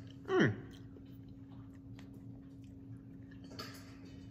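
A person chewing a mouthful of macaroni and cheese, with a short hum of falling pitch like an appreciative "mmm" about half a second in and a brief breath through the nose near the end, over a steady low hum.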